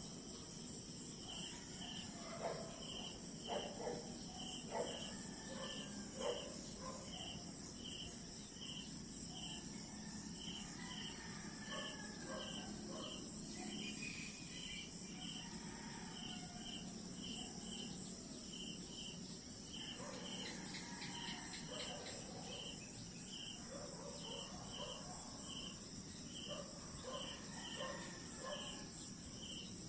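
Crickets chirping steadily, about three chirps a second, over a continuous high insect trill, with scattered short calls and clicks lower down.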